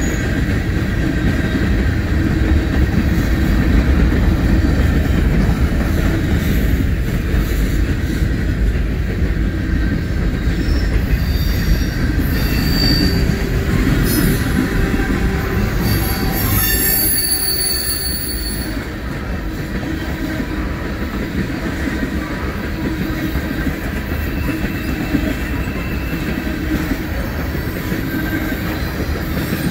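Freight train tank cars rolling past at close range: a steady rumble of steel wheels on the rails, with high-pitched wheel squeal coming in about halfway through.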